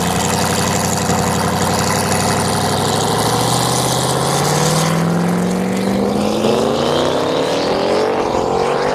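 Turbocharged V8 of a race-built 2007 Cadillac CTS-V running steadily, then pulling hard under acceleration, its pitch rising smoothly and continuously over about six seconds.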